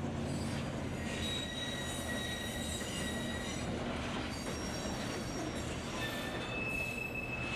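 Train running: a steady low rumble with thin, high wheel-squeal tones that come and go at shifting pitches.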